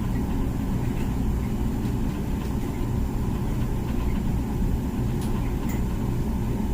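Comfee dishwasher running mid-cycle: a steady low hum, with a few faint light ticks.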